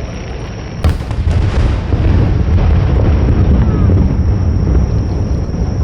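A firework shell bursts with a sharp boom about a second in, followed by a loud low rumble that rolls on for several seconds.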